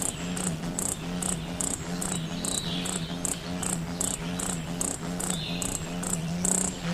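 High-pitched chirps repeating evenly, about two to three a second, over a steady low hum, with a couple of brief falling notes in between.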